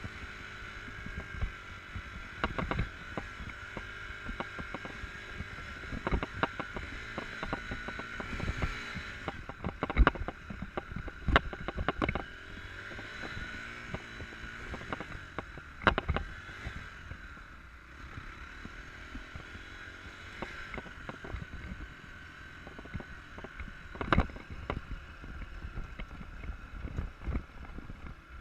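Enduro motorcycle engine running with its revs rising and falling, broken by sharp knocks and clatter, loudest about a third of the way in, just past halfway and near the end.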